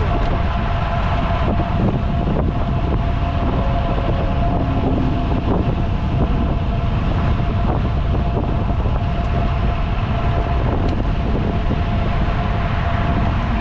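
Steady rush of wind on the microphone and road noise from a road bike riding at speed, with a faint steady whine running through it.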